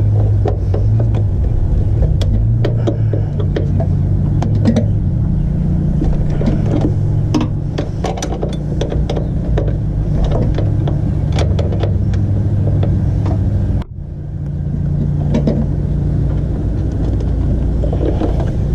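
Light metallic clicks of a 10 mm wrench snugging a clutch line fitting onto a clutch master cylinder, over a steady low hum.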